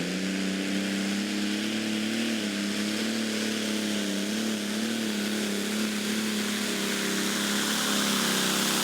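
A tractor-pulling engine running at a steady, nearly constant speed, with only small wavers in pitch, over a wide hiss.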